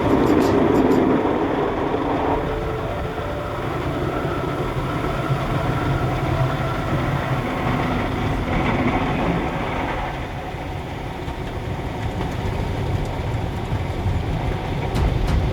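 Automatic car wash machine running: a steady mechanical noise with a low rumble, changing in character about two seconds in and again about ten seconds in.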